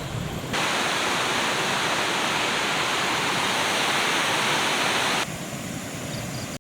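Waterfall rushing: a steady, even hiss of falling water. It steps up louder about half a second in and drops back lower about five seconds in.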